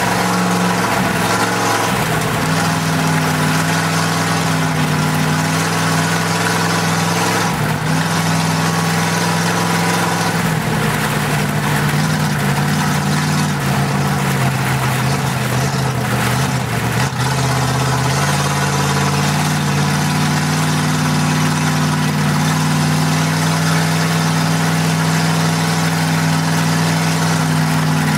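Oldsmobile 350 V8 running steadily at moderate speed, heard from inside the race car's cabin, its pitch shifting slightly a few times as the speed changes, under a constant rush of road and wind noise.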